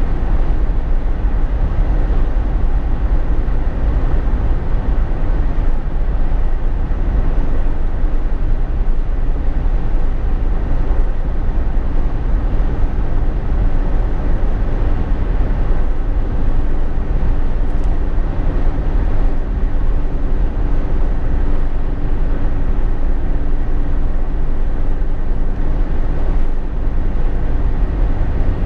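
Inside the cabin of a Jeep Wrangler JK on the move: a steady, deep road rumble with a faint steady engine drone over it, unchanging throughout.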